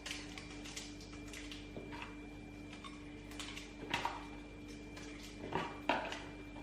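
Light clicks and knocks of kitchen handling, utensils and containers being set down and moved, with a few sharper knocks about four seconds in and near the end, over a steady low hum.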